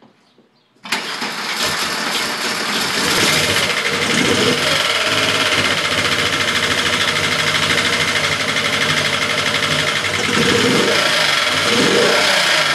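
A VR engine swapped into a Mk2 starts about a second in and settles into a steady idle. The owner suspects it of misfiring.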